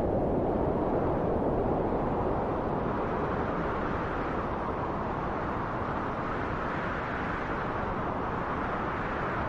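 Wind blowing: a steady rushing that slowly swells and eases.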